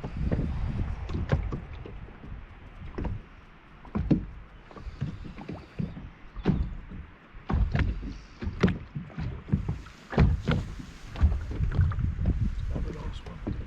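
Irregular knocks and bumps on a small rotomoulded plastic boat, over a low rumble.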